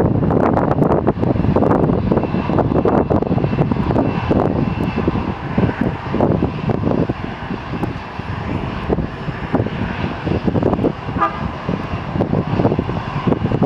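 Airliner engines running loud and rough, the noise of an aircraft taking off or landing, with a faint steady whine above it; the level dips a little midway and swells again near the end.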